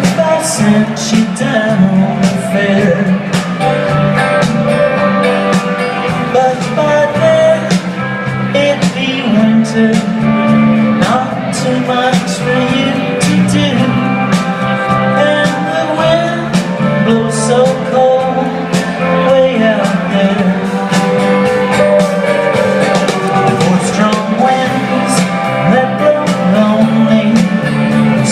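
A band playing a song, with a singing voice over a steady bass line and regular drum or cymbal hits.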